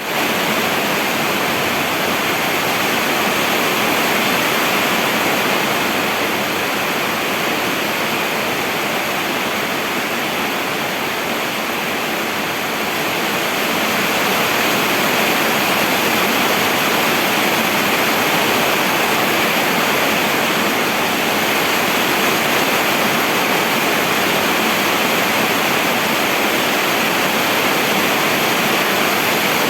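Steady heavy rain falling, a dense even hiss with no individual drops standing out.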